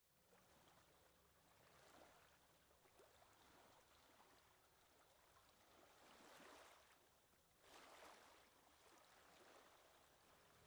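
Near silence: a faint rushing noise that swells softly a few times.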